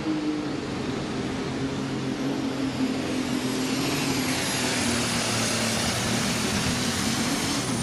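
Alcohol-burning super stock pulling tractor running at full throttle while it drags the weight-transfer sled, its engine pitch sagging slowly under the load, with a high steady whistle over it. Right at the end the engine is let off and its pitch drops quickly.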